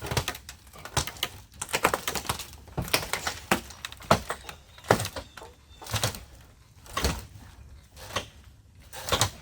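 Repeated knocks and bangs, roughly one a second, from an old chicken coop being forced over during its teardown.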